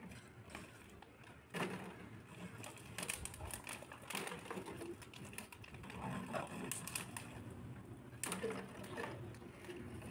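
Irregular knocks, clicks and clatter, like objects being handled or moved about.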